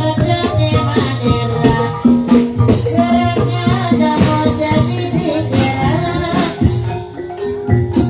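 Banyumasan ebeg accompaniment music: tuned percussion playing quick repeating notes over a steady low drum beat, with a rattling shaker-like layer on top. Briefly thins out for a moment about seven seconds in.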